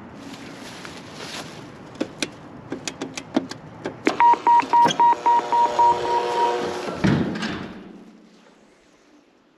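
Car door being opened with a few sharp clicks, then the car's door chime beeping about four times a second for a couple of seconds, and the door shutting with a heavy thud about seven seconds in.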